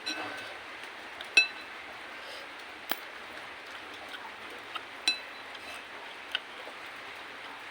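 Spoon clinking against a bowl while eating bakso: three ringing clinks, near the start, about a second and a half in and about five seconds in, with a few lighter taps between, over a steady hiss of rain.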